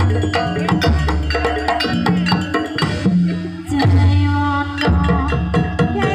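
Javanese gamelan music accompanying a dance: sustained metallophone and gong tones over repeated hand-drum (kendang) strokes and sharp wooden clicks, with a brief lull just before the drum comes back in strongly.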